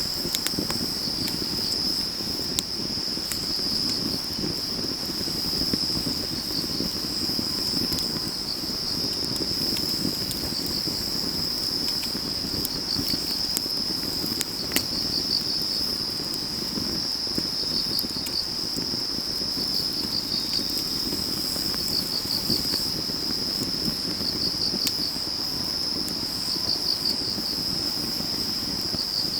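Autumn grass insects trilling steadily at a high pitch, the trill pulsing in places, over the low steady sound of a wood fire burning with scattered crackles.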